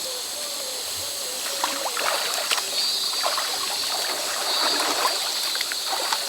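River water trickling and splashing over a shallow bed, with the splashing busier from about a second and a half in.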